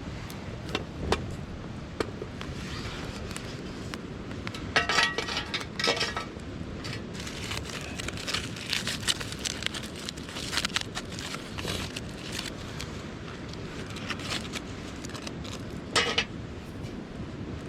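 Metal camp cookware and utensils clinking and knocking as they are handled, with two ringing clinks about five and six seconds in and a sharp knock near the end. Campfire crackling in scattered small pops over a steady low background rumble.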